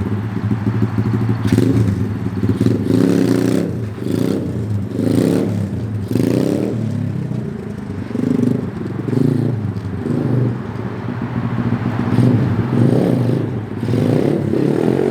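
SSR 125 pit bike's single-cylinder four-stroke engine under way, revving up and dropping back repeatedly as the throttle is opened and closed, its pitch rising and falling several times.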